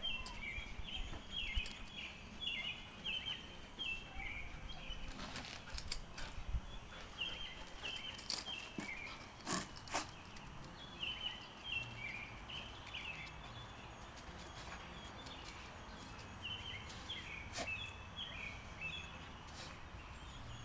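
A songbird singing in repeated runs of quick falling chirps, each run a second or two long, over a low steady background rumble, with a few sharp knocks and clicks.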